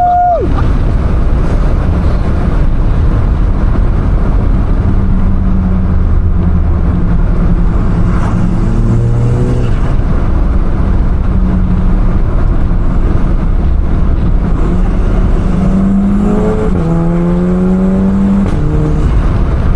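Audi S3 8P's turbocharged 2.0 TFSI four-cylinder, fitted with an aftermarket downpipe, pulling hard under load with its revs climbing twice through the gears over steady road noise.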